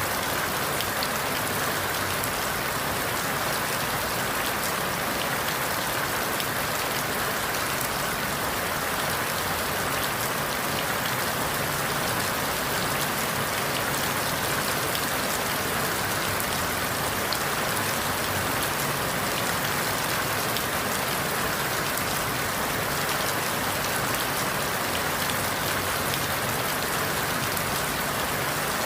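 Steady rain falling through forest leaves, a constant even hiss with scattered drop taps.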